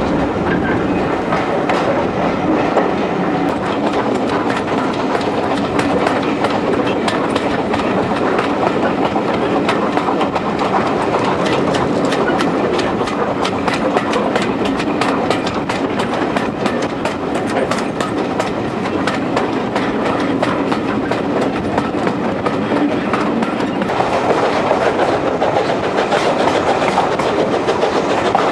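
Steam-hauled passenger train on the move, heard from a carriage window: coach wheels rolling with a steady rumble and a rapid clickety-clack over the track, clicks thickest in the middle.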